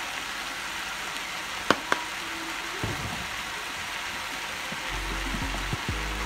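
Cubed raw chicken breast frying in hot oil in a nonstick pan, a steady sizzle, with two sharp clicks a moment apart a little under two seconds in.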